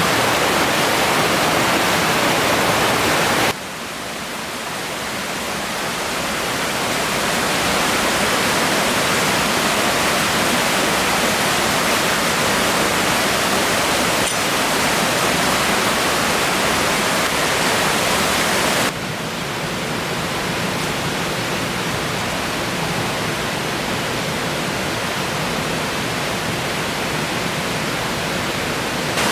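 Steady rush of flowing river water, with abrupt drops in level about three and a half seconds in and again near nineteen seconds.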